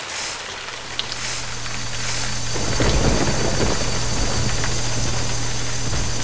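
Rain-and-thunder sound effect: a steady hiss of heavy rain with a low rumble of thunder building about two and a half seconds in, over a low steady hum.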